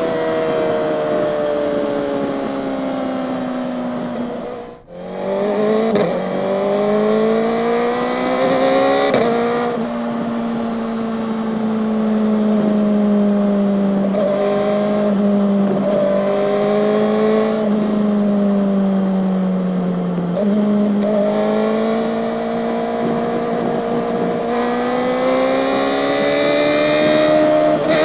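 Kawasaki ZX-4RR's 399 cc inline-four engine heard while riding. Its note falls off and briefly cuts out about five seconds in, then climbs again with the throttle. It steps in pitch at gear changes and holds a steady cruising note before rising once more near the end.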